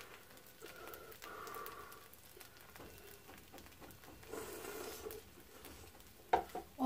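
Faint chewing and soft mouth sounds of someone eating blanched dureup shoots dipped in thick red-pepper sauce, with a brief louder sound near the end.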